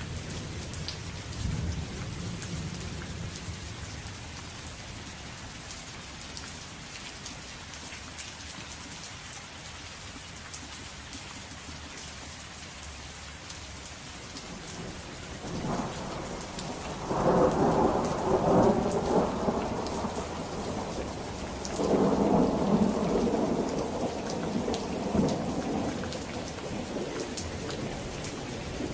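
Steady rain falling, with thunder: a low rumble in the first few seconds, then two loud rolls of thunder, one starting a little past halfway and another a few seconds later.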